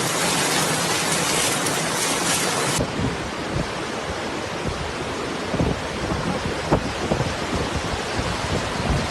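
Storm noise: a steady hiss like heavy rain, then about three seconds in an abrupt switch to wind buffeting the microphone with irregular low rumbling.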